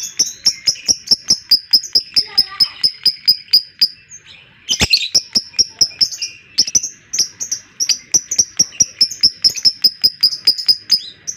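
Lovebird in its long ngekek: a fast, even string of sharp high chirps, about six a second, running for about four seconds, breaking off briefly, then starting up again for about six seconds. Fainter bird chatter lies underneath.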